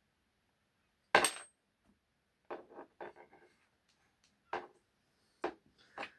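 Small tools and metal screws clicking and tapping against an RC car's parts during hand work: one sharp, loud clack about a second in, then a string of lighter taps and clinks.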